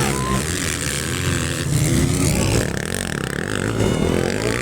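Several 450cc motocross bikes' engines revving, their notes rising and falling as the riders work the throttle.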